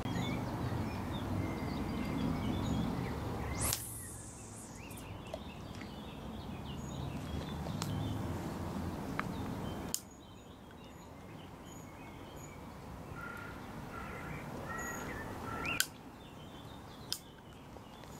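Small birds chirping and singing over a low background rumble that drops away abruptly twice.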